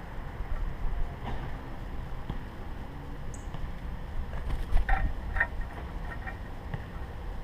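Low wind rumble on the camera microphone, with scattered taps and clicks of birds feeding at a tray feeder, busiest about five seconds in. A brief high chirp comes a little past three seconds in.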